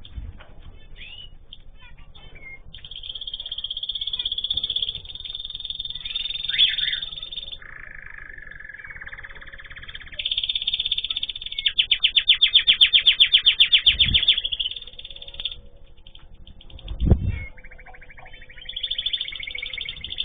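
Small cage birds singing and chirping in phrases, with a fast rolling trill of rapidly repeated notes lasting a few seconds around the middle. Two dull low thumps come after the trill.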